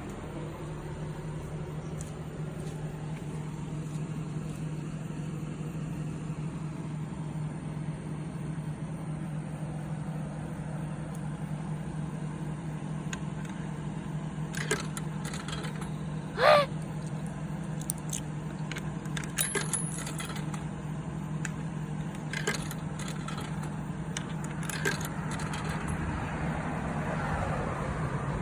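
Coins being fed into a vending machine, heard as a series of sharp clicks and clinks over the second half. About halfway through comes one louder, short ringing clink. A steady low hum runs underneath.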